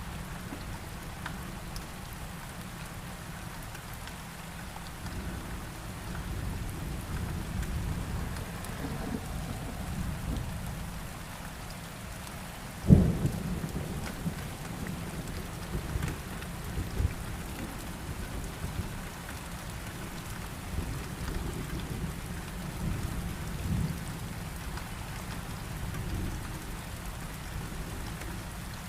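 Steady heavy rain with rolling thunder. A sharp, loud thunderclap comes about halfway through, followed by further rumbles.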